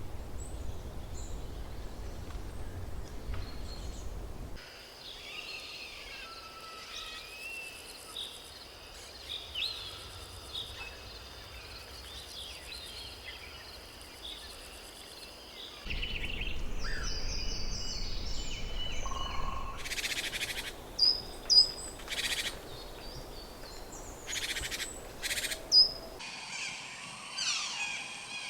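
Birds chirping and calling in short high notes over low outdoor rumble, with a few sharp clicks in the later part.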